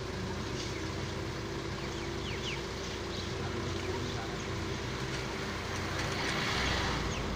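A vehicle engine running steadily, with scattered short, high chirps over it.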